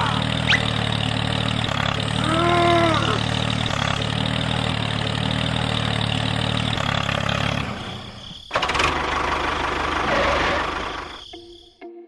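A small engine running steadily, stopping about eight seconds in, with a brief rising-and-falling tone about two and a half seconds in. A noisier, rushing sound follows after the engine stops.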